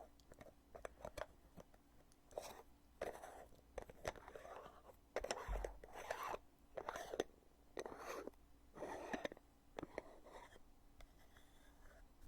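Lid of a cosmetic foundation container being opened and closed over and over: sharp clicks of the lid seating and releasing, with short scraping rubs between them, about one or two sounds a second.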